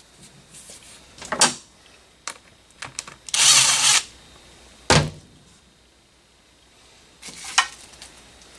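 Tools and engine parts knocking and clinking during an engine teardown, with a power tool running in one short burst of under a second about halfway through.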